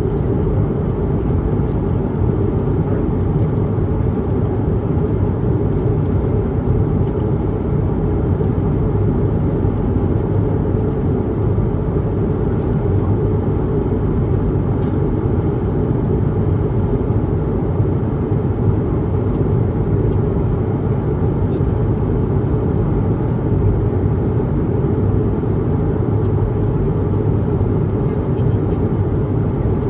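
Steady in-flight cabin noise of an Airbus A220-300: its Pratt & Whitney PW1500G geared turbofans and the airflow over the fuselage, a constant low, even rush heard from inside the cabin.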